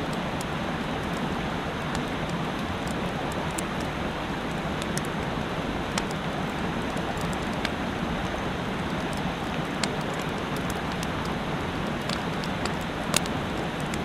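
Steady rushing of a mountain stream, dotted with scattered faint sharp ticks; one louder tick comes near the end.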